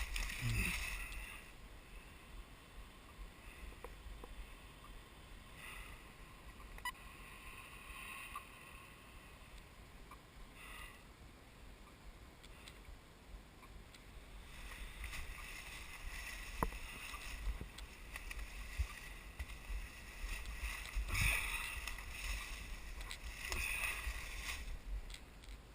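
Dense wild blueberry bushes rustling and swishing against a person pushing through them on foot, in uneven bursts that are heavier near the start and over the last ten seconds, over a low rumble.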